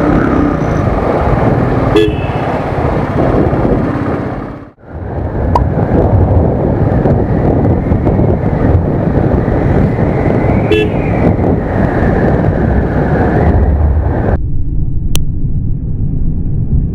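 Royal Enfield Thunderbird single-cylinder engine revving while riding in traffic, with road and wind noise. Short horn toots come about two seconds in and again near eleven seconds.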